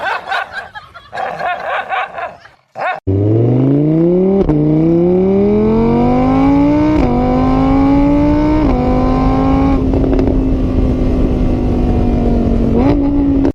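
A car engine accelerating hard through the gears: its note climbs and drops sharply at each of three upshifts, then holds steady at speed. Before the engine comes in, about the first three seconds hold a jumble of wavering, pitched sounds.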